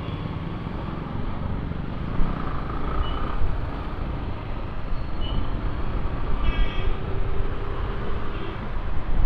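Motorcycle ride on a busy road: steady wind and road noise with engine rumble. A brief high-pitched tone sounds about six and a half seconds in.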